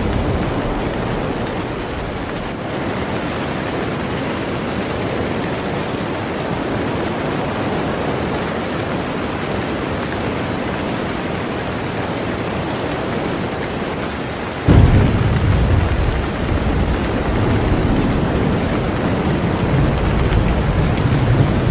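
Heavy rain falling steadily on a boat, a dense even hiss. About fifteen seconds in a deep low rumble of thunder sets in suddenly and rolls on, louder than the rain.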